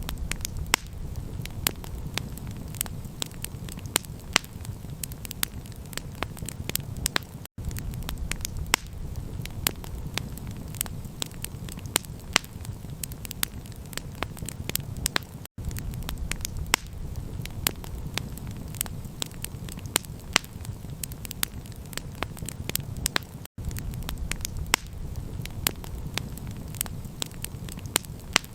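Campfire crackling, with many sharp pops and snaps over a steady low rumble. The sound cuts out for an instant about every eight seconds.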